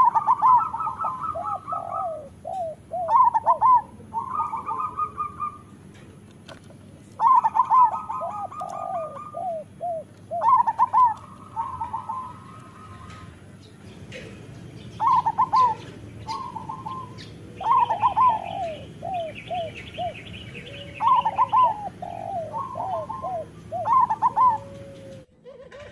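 Zebra dove (local perkutut) cooing: phrases of quick bubbling notes that step down in pitch, repeated every three to four seconds.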